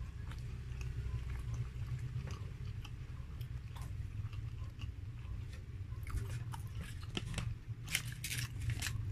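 Close-up chewing of a mouthful of burger, with wet mouth clicks and smacks that come thicker and louder about six seconds in and again near the end. A steady low hum runs underneath.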